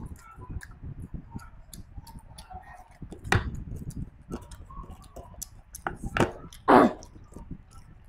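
Close-miked chewing and wet lip-smacking of a person eating curry and rice by hand, with many small mouth clicks. Three louder smacks or slurps stand out, one about three and a half seconds in and two between six and seven seconds.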